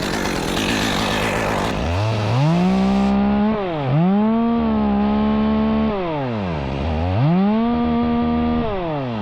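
Chainsaw revved up to full throttle three times, its pitch climbing, holding steady, then dropping back between revs.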